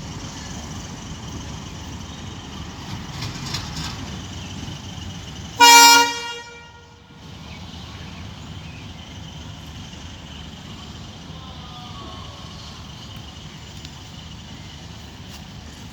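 Diesel locomotive air horn (the WDM3D's) sounding one short loud blast about six seconds in, over the steady low rumble of the locomotive running while shunting.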